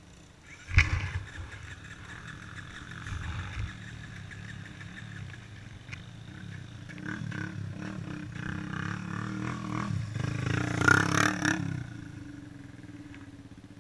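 A motor vehicle passing by, its engine rumble building to a peak and then fading away. It is preceded by a sharp knock about a second in.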